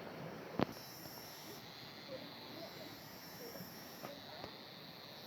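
Steady outdoor hiss with insects buzzing high in pulses that come and go every second or so. One sharp knock, the loudest sound, comes about half a second in.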